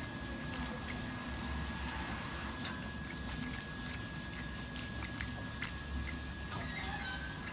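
A steady, evenly pulsing high-pitched trill, insect-like, with a faint steady whistle-like tone, a low hum and scattered soft clicks.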